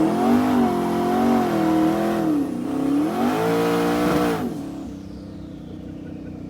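Twin-turbo LS V8 in a Camaro launching off the trans brake, its revs climbing and surging up and down as the rear tyres spin. The revs dip about two seconds in, climb again, then fall away about four and a half seconds in as the driver lifts, leaving a lower steady drone.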